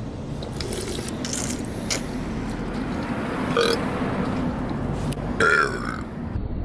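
A person burping in short bursts, about three and a half and five and a half seconds in, over steady outdoor background noise.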